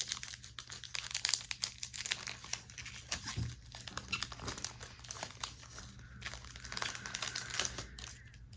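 Crinkling and tearing of a trading-card booster-pack wrapper as a pack is opened and handled, in two busy spells: one at the start and one near the end.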